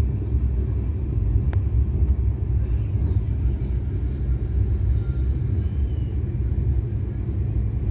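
Steady, loud low rumble with no clear engine note, with a single click about one and a half seconds in.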